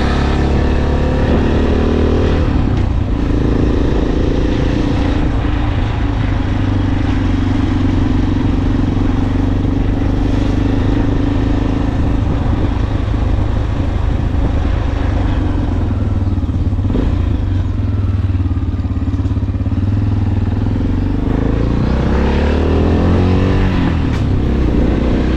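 Motorcycle engine running while riding, with a heavy low rumble of wind on the microphone. The engine note shifts pitch a couple of times early on, then drops and climbs again near the end.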